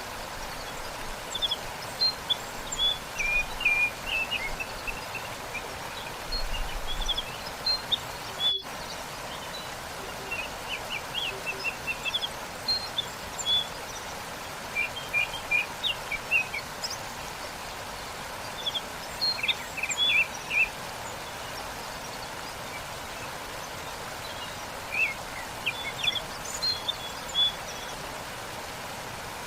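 Waterfall rushing steadily, with songbirds chirping over it in many short, quick calls.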